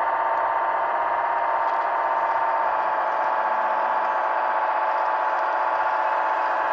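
Small electric motor of a radio-controlled scale construction model running steadily, with a held whine and a light rattle.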